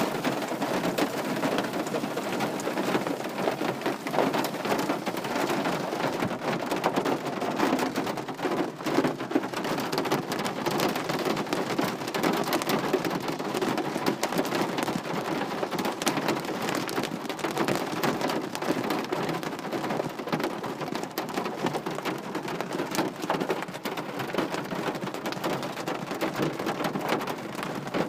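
Steady, fairly heavy rain falling, a continuous patter of many drops without let-up.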